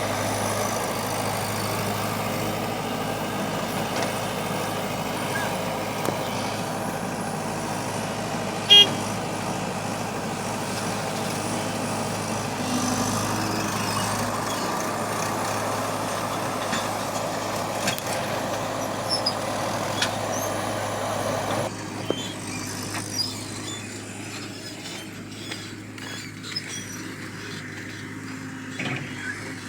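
Excavator engine running steadily under load while digging and loading soil, dropping to a quieter run about 22 s in. A single short, sharp sound stands out about 9 s in.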